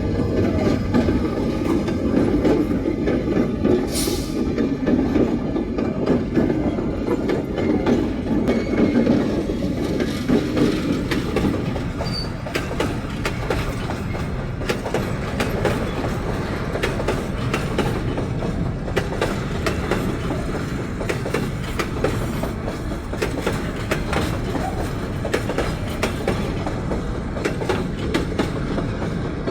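Long freight train of empty FFD and HFD wagons rolling past, its wheels clacking over the rail joints. The low rumble is heaviest for the first ten seconds or so, then gives way to a steady run of clacks.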